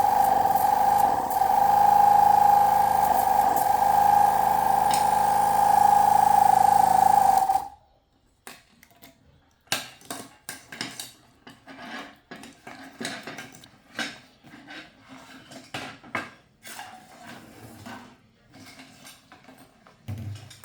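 A small electric air compressor, such as a portable tyre inflator's, runs with a loud steady hum for about seven seconds and then cuts off abruptly. After it stops there are scattered light clicks and taps of small parts and tools being handled.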